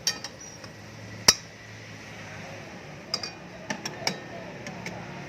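Kitchen utensils and dishes clinking: about nine sharp clinks with a short ringing tail, the loudest about a second in, over a faint steady hum.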